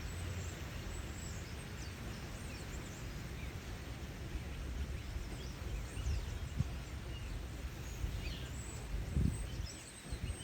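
Outdoor ambience: a steady low rumble with faint, high bird chirps scattered throughout, and a couple of soft thumps in the second half.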